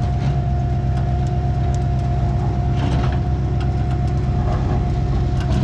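Truck engine running steadily: a constant low drone with a steady high whine over it.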